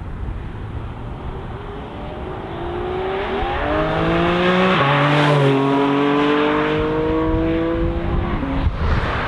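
A sports car's engine accelerating hard, its pitch climbing, dropping sharply at an upshift about halfway through, then climbing again before a second drop near the end.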